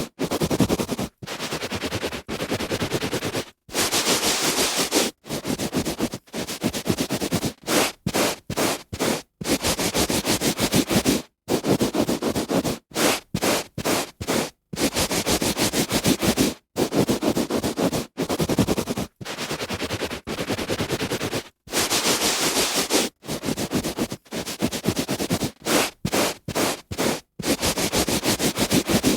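A hand rubbing back and forth on carpet: a run of rasping strokes, some short and some over a second long, each cut off by a brief silence.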